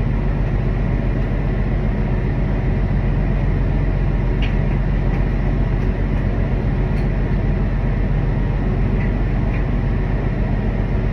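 Steady, loud low engine drone with a few faint clicks over it.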